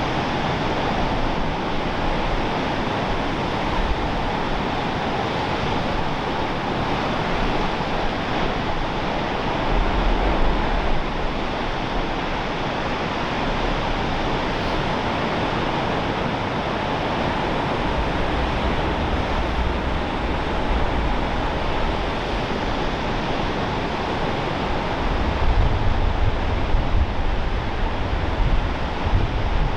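Steady rush of Pacific Ocean surf mixed with wind. Low buffeting of wind on the microphone swells about ten seconds in, again around the middle, and most strongly near the end.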